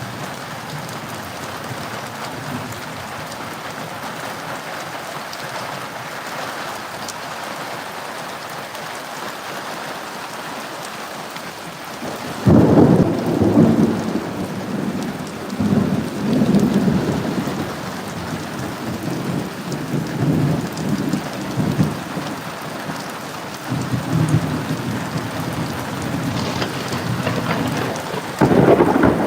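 Steady rain falling, then about halfway through a sudden loud clap of thunder that rolls on in rumbling swells. Another sharp thunderclap breaks near the end.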